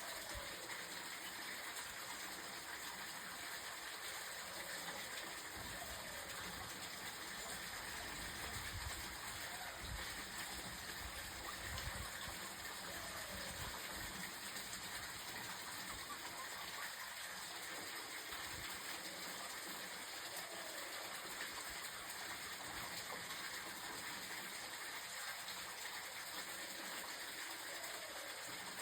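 Steady hiss of outdoor background noise, with low rumbles of wind on the microphone from about eight to twelve seconds in. A faint short falling tone recurs every seven seconds or so.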